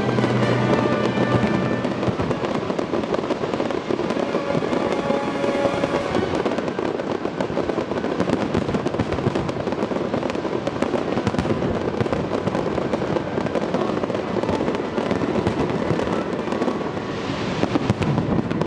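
Fireworks display: dense, continuous crackling and popping of many bursts going off in quick succession, with parade music playing alongside, its held notes clearest in the first couple of seconds and again around five seconds in.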